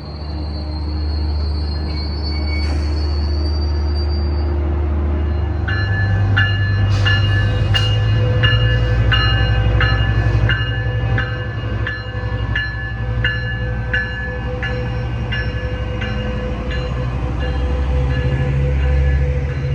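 Train rumbling at the station, with a thin high wheel squeal for the first few seconds. About six seconds in, a bell starts ringing steadily, about one and a half strikes a second.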